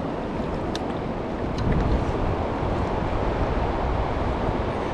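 Steady rushing noise of wind buffeting the microphone over flowing river water, with a few faint light taps.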